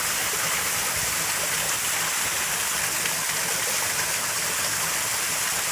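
Rain-swollen rocky creek rushing and splashing over stones and into natural pools, a steady, loud rush of water.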